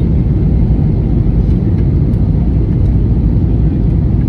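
Steady low rumble of an airliner's engines and rushing air, unchanging throughout.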